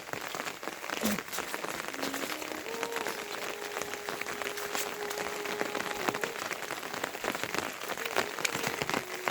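Steady rain falling on surfaces, a dense hiss of many individual drops hitting. A faint steady low tone runs underneath from about two seconds in.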